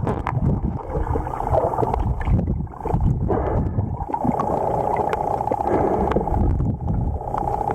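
Underwater rush and rumble of a swift river current against the camera, with gurgling bubbles. From about four seconds in, a steady buzzing hum joins it.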